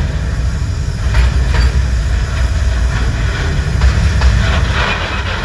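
A freight train of flat wagons loaded with tank containers rolls past close by: a steady low rumble, with sharp clanks from the wheels and wagons now and then.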